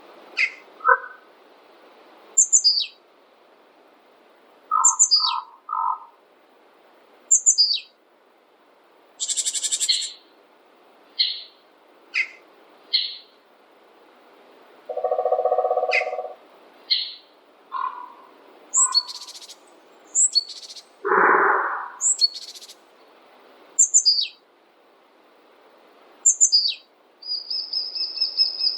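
Several songbirds calling. One bird repeats a short, high call that falls in pitch, about every two to three seconds, while other birds add scattered chirps and short trills over a faint steady hiss.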